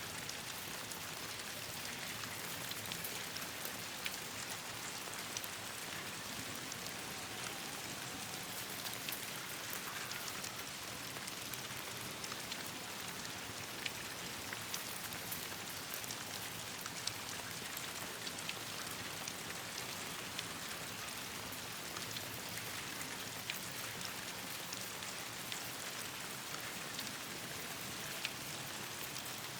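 Steady rain falling, an even hiss, with frequent scattered sharp ticks and pops.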